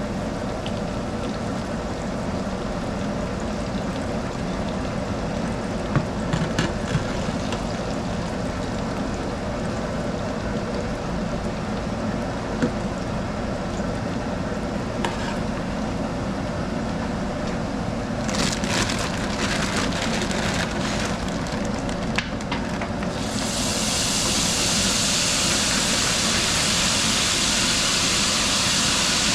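Battered fish frying in hot grease: a steady sizzle with a few light clicks and taps. About three-quarters of the way through, the sizzle suddenly gets louder and brighter and stays that way.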